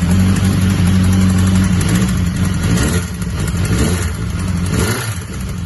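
BMW S1000RR inline-four engine running just after start-up, with the heavy knocking of scored crankshaft bearing shells ("拉瓦声"), not valve noise.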